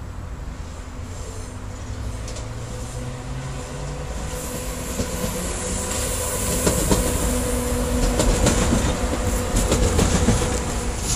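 An electric multiple-unit passenger train approaches and passes close by. Its motor tone rises in pitch over the first few seconds, and the sound grows louder. In the second half the wheels click rhythmically over the rail joints as the cars go past.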